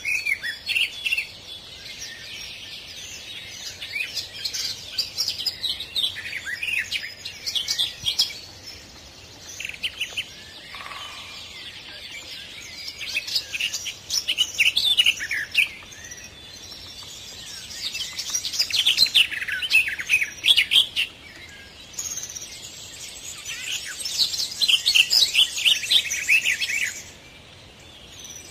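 Songbirds singing: bouts of rapid, high chirps and warbles lasting a few seconds each, repeated every several seconds over a faint steady background.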